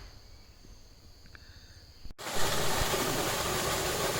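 Quiet forest ambience with a steady high insect drone. About halfway through, it cuts abruptly to a loud, steady rushing noise.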